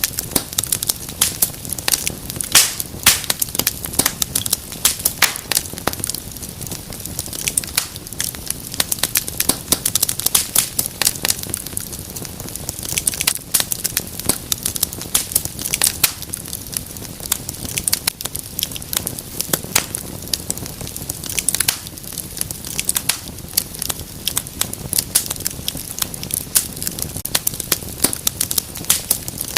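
Wood fire crackling in a fireplace: dense, irregular pops and snaps over a low steady rumble of burning.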